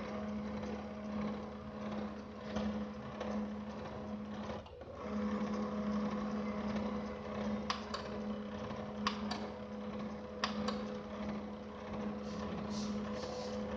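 HP LaserJet M1005 laser printer running its motor with a steady hum that stops briefly about five seconds in and starts again, followed by several sharp clicks from the paper pickup mechanism. The clicking comes without the pickup tray lifting or paper feeding, a fault the repairer puts down to a worn clutch drive gear.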